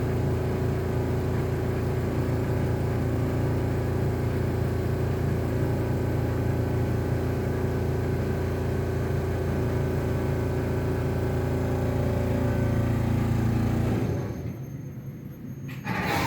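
Iyotetsu city-line streetcar running, heard from inside the car: a steady low rumble with a motor hum. About fourteen seconds in the sound drops away sharply, and a sudden loud noise comes in near the end.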